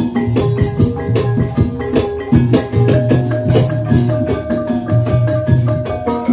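Javanese gamelan music for an ebeg dance, played at a steady tempo. Pitched metallophone tones ring over a repeating low drum pulse, with a dense run of quick, sharp percussion strokes.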